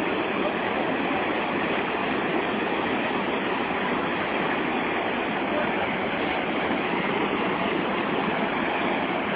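Steady rush of whitewater at the Santo Antônio falls on the Madeira River, an even unbroken roar of falling and churning water.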